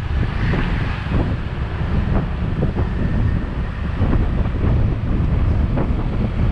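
Wind buffeting the microphone of a moving motorbike: a heavy, gusty rumble with quick irregular thumps throughout.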